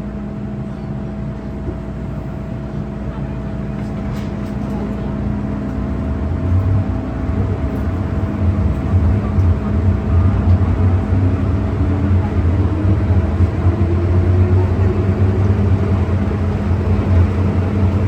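MTR M-Train electric multiple unit heard from inside the carriage, pulling away and accelerating. A steady hum and a rising traction-motor whine climb in pitch from about six seconds in, while a low rumble grows louder.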